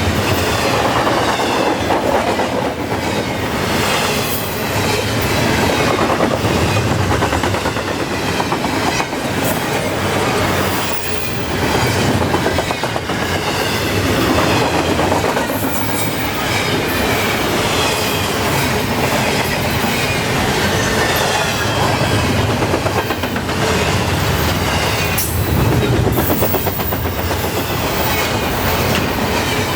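Intermodal well cars of a long freight train rolling past at speed: a steady rumble of steel wheels on rail with continual clickety-clack.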